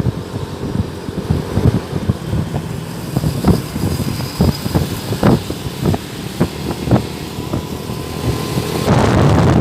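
Low rumble of a moving vehicle, with wind buffeting the microphone and irregular thumps throughout. It gets louder and fuller about nine seconds in.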